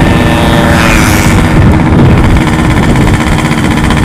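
Yamaha RX-King's single-cylinder two-stroke engine running loud and steady, with a brief rising hiss about a second in.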